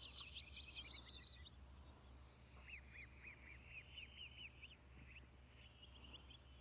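Faint bird chirping: several quick runs of short, repeated high notes, over a low steady electrical hum.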